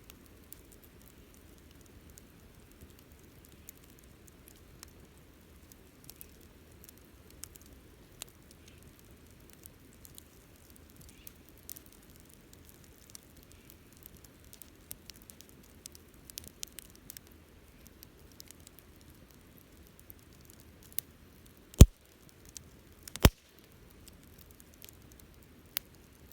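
Wood campfire crackling, with a soft steady hiss under scattered small ticks and pops, and two sharp, much louder pops about a second and a half apart near the end.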